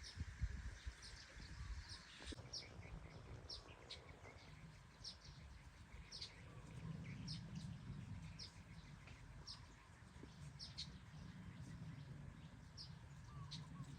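A small bird chirping: short, high, faint chirps repeated about once or twice a second, over a low rumble.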